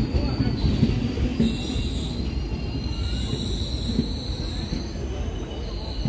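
Passenger train rolling along the platform track, a steady low rumble of wheels on rail with thin high-pitched wheel squeals over it that change pitch a couple of times.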